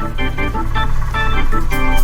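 Organ music, short chords played in a steady rhythm over a steady bass line.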